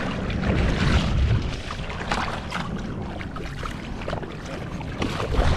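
Wind buffeting the microphone over a wash of surf, swelling about a second in and again near the end, with scattered short splashing and clicking sounds.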